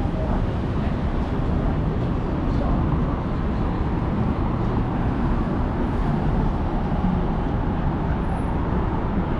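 Steady city traffic noise: a continuous rumble of road vehicles along a downtown street.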